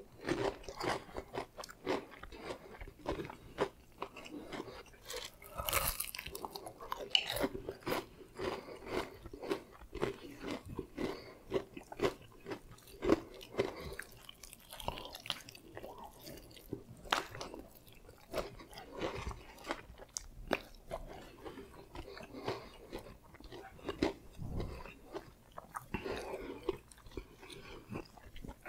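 A man biting into and chewing Popeyes fried chicken, with many irregular crisp crunches of the breading.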